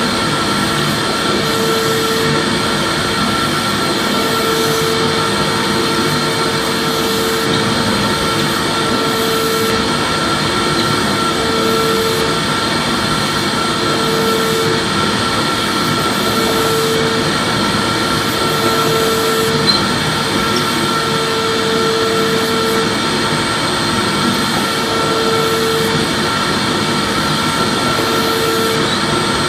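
Vacuum cleaner running steadily: an even rush of air with a constant whine, and a lower hum that comes and goes every second or two.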